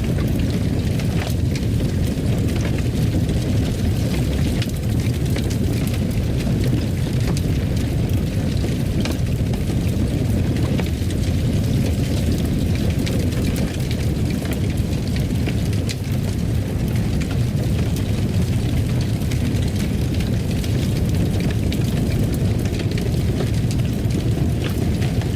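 Fireplace fire burning: a steady low roar of flames with small sharp crackles and pops scattered throughout.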